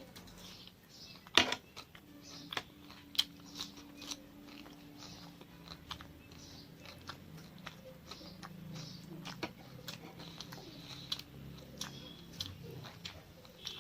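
A person chewing and eating close to the microphone, with irregular wet mouth clicks and smacks and one sharper, louder click about a second and a half in.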